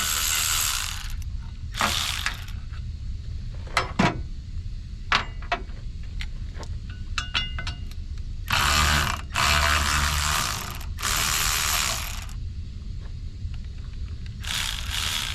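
Hand ratchet wrench being worked in about six short spells of rasping clicks, with scattered sharp metallic clicks and clinks between them, as the air dryer is unbolted and opened up.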